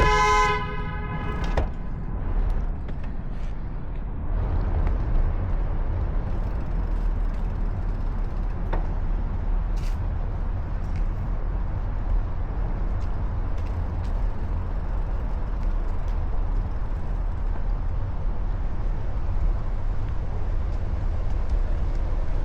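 A vehicle horn toots for about a second and a half at the start. Then a steady low rumble of traffic and wind noise follows.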